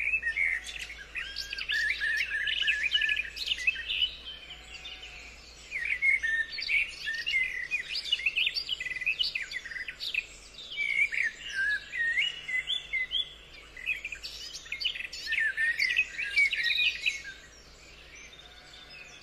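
Birds chirping and singing, several quick overlapping calls in bouts of a few seconds with short lulls between them.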